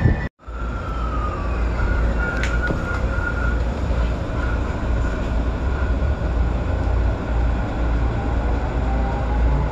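JR Keiyo Line electric commuter train running along the track, heard from inside near the front cab: a steady low rumble of wheels and running gear with a high motor whine, some of it sliding in pitch. The sound cuts out briefly just after the start.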